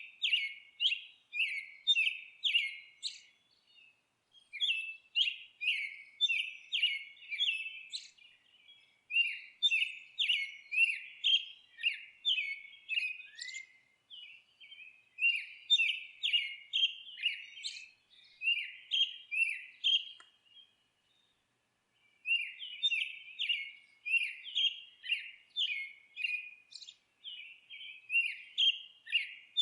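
Songbird chirping: short, downward-sweeping high chirps repeated two to three a second in runs of several seconds, with brief pauses and one longer pause about two-thirds of the way through.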